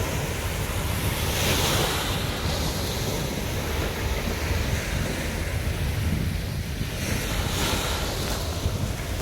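Sea surf breaking and washing up a beach, with swells of hissing spray about one and a half seconds in and again near the end. Wind buffets the microphone underneath, a steady low rumble.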